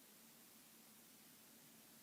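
Near silence: faint steady hiss of room tone with a faint low hum.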